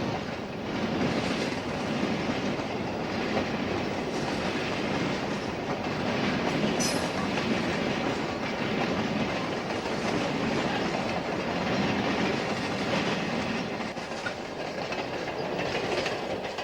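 Freight train rolling past: a steady rumble of the cars with the clickety-clack of wheels over rail joints, and a brief high squeak about seven seconds in.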